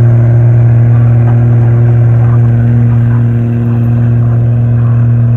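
Truck engine running loud and steady at constant high revs, its pitch holding level, as in a truck pulling a sled under load.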